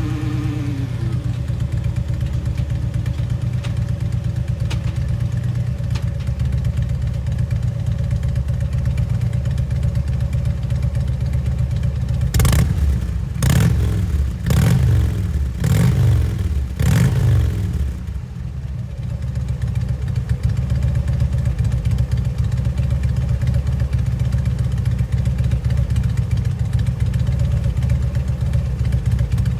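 2009 Harley-Davidson Electra Glide Classic's V-twin idling through Vance & Hines Eliminator 400 mufflers. About halfway through it is revved in five quick throttle blips, each falling back, and then it settles into a steady idle again.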